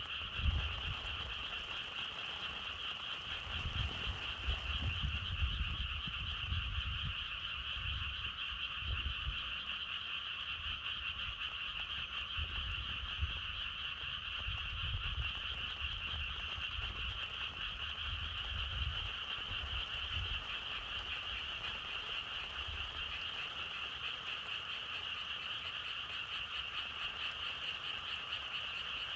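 Dense chorus of many frogs calling at once, a steady unbroken trill. Low wind gusts rumble underneath, dying away about two-thirds of the way through.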